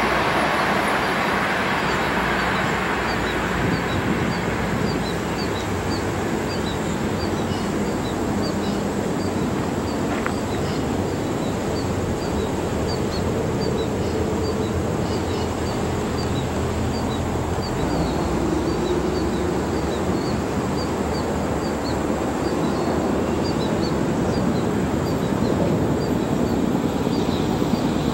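A passenger train's rolling noise fading away in the first few seconds as it recedes, leaving a steady low rumble. Through this runs a high-pitched chirping, repeated a few times a second, and the rumble grows again near the end as another train approaches.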